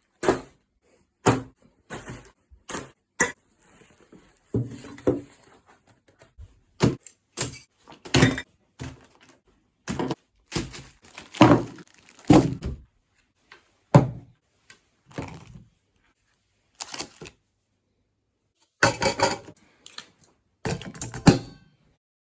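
A series of irregular thuds and knocks, some short and sharp, a few longer and scraping, with silent gaps between them.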